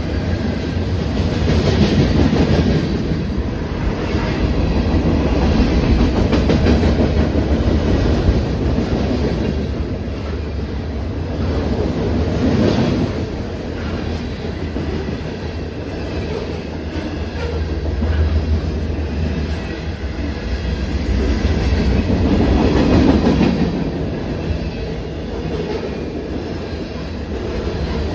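A train's cars rolling past, their wheels clattering over the rails in a continuous rumble that swells and eases.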